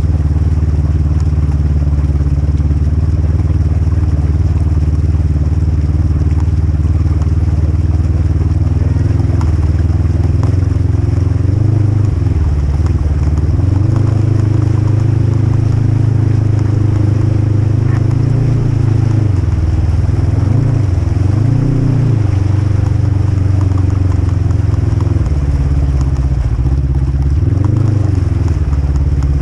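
Polaris RZR 1000 side-by-side's engine running. It holds a steady speed at first, then about twelve seconds in the revs rise and fall repeatedly as the throttle is worked.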